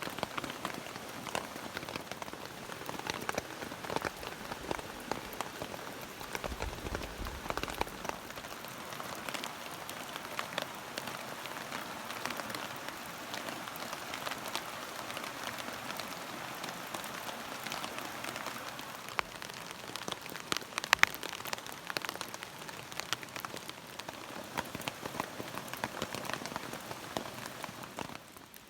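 Steady rain, with many separate drops pattering close by and a few sharper hits about three-quarters of the way through.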